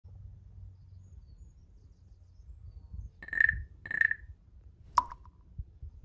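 Wind rumbling on the microphone in the open, with a bird calling: two short clear notes at the same pitch about half a second apart, a little past halfway, then a single sharp note that drops in pitch about a second later.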